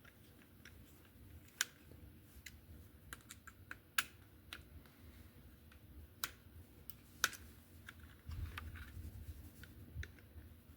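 Light plastic clicks and taps as a slot car's plastic body and chassis are handled and screws are driven into it with a small screwdriver, a handful of sharper clicks among them. A low rumble of handling comes about eight seconds in.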